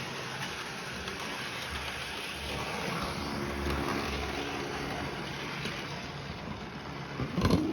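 Model train running slowly along the track, a steady whirring rumble, with a few sharp knocks near the end.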